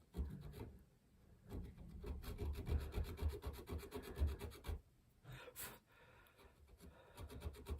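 Hand filing on steel: a file rasping against the screwdriver blade being shaped into a chequering tool. There is a short burst at the start, a longer run of strokes from about a second and a half to nearly five seconds in, and more near the end.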